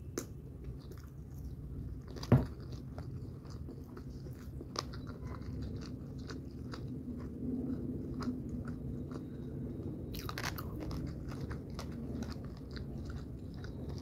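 A person chewing a mouthful of food close to the microphone, with many small wet mouth clicks. A single sharp knock about two seconds in is the loudest sound.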